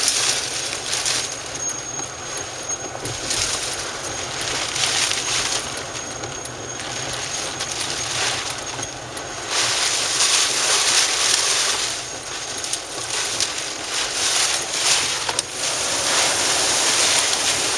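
Gusty wind rushing and buffeting over the microphone, surging louder and softer every few seconds, with the strongest gusts about ten seconds in and near the end.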